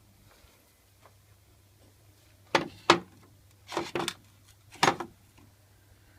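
Worn oil pump drive of a BMW M20B25 engine knocking with play in its bushings: about seven sharp clacks in small clusters, roughly a second apart.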